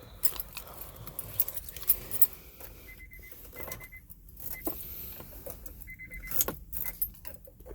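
A car key ring jangling and clicking as it is handled, with a few short high-pitched electronic beeps from the car about three and six seconds in; the engine is not yet running.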